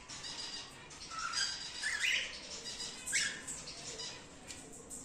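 Cockatiels calling in a colony aviary: high chirps and several harsh squawks, the loudest about two and three seconds in.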